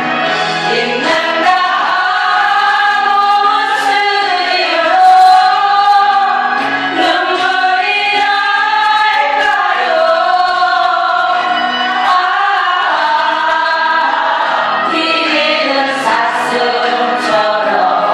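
A woman singing a Korean ballad over instrumental backing, holding long, wavering notes.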